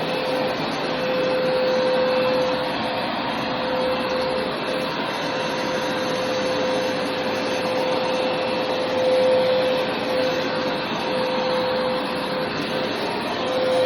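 Hoover carpet cleaner running steadily: a continuous motor and suction rush with a steady whine, which wavers briefly a few times as the machine is pushed over the carpet.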